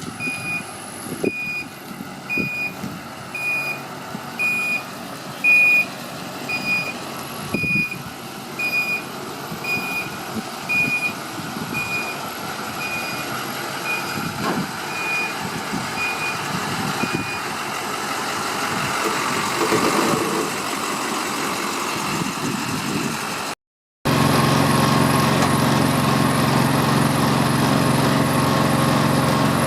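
Backup alarm on a GMC C4500 Duramax diesel tow truck beeping about one and a half times a second over the running engine; the beeping stops about 17 seconds in. After a brief cut, a small 420cc gas engine power unit for the wrecker boom and wheel lift runs steadily and louder.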